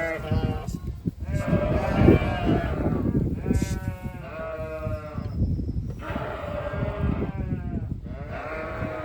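A lamb bleating over and over, about five long wavering calls, with a low rumbling noise underneath.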